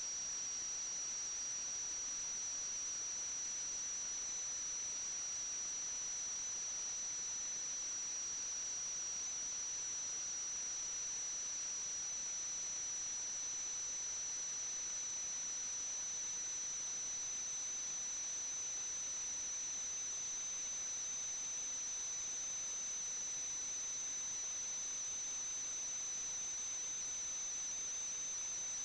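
Steady high-pitched electronic whine over an even hiss, with a fainter second tone that drifts slightly lower near the end: noise from the sewer camera's recording electronics, with no live sound on the track.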